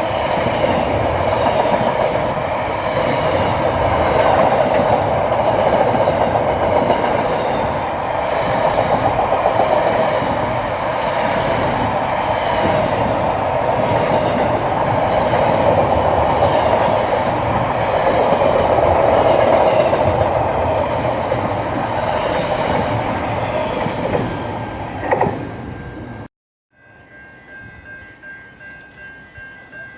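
Train running along the track, a steady rumble with wheel clatter over the rail joints. It cuts off suddenly about 26 seconds in. After a moment of silence, a much quieter steady whine follows with a level that pulses about twice a second.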